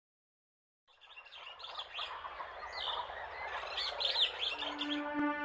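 Small birds chirping in many rapid, short calls over a soft outdoor hiss, fading in after a second of silence. Near the end a sustained musical note with overtones comes in beneath them.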